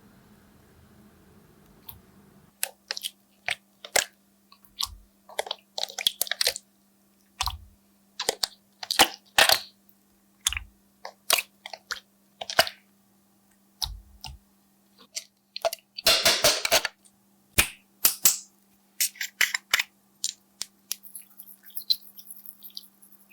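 Slime being squished and worked by hand, giving irregular sticky clicks and pops, with a longer crackly stretch of squishing about two thirds of the way through.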